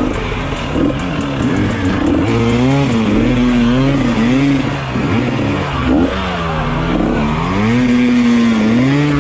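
Dirt bike engines revving up and falling back again and again, several times a second, as the bikes ride off-road.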